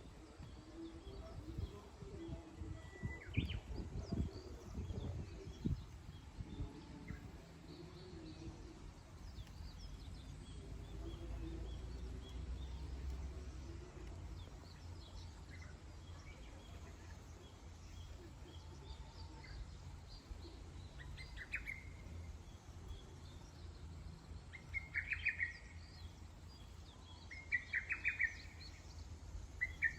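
Wild birds chirping, with scattered short calls and a run of louder repeated chirping phrases in the last several seconds, over a low rumbling background with a few knocks in the first six seconds.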